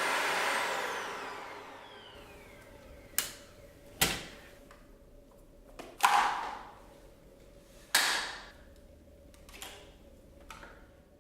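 Sharp plastic clicks and knocks, about six spread over several seconds, as the vacuum's wand and hose are released and handled. They follow a sound at the very start that fades away with falling pitch over about two seconds.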